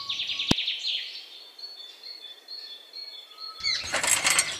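Small birds chirping: a fast high trill, then thin high whistles, then a burst of denser chirping near the end. There is a single sharp click about half a second in.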